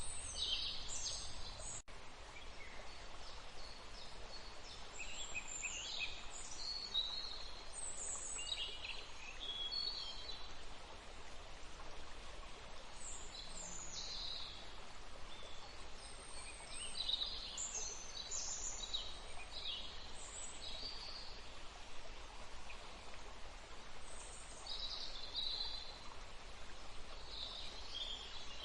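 Steady rush of flowing water, with birds chirping and calling on and off throughout.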